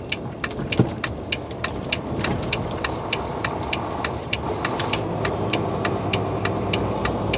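Semi truck's diesel engine running, heard from inside the cab, growing a little louder about two seconds in. A steady, even ticking sounds over it, about three ticks a second.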